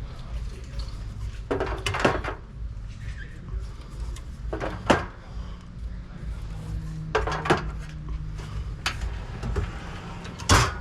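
Knocks and clatters of products being handled and loaded into a vending machine, about five irregular hits, with a steady low hum underneath.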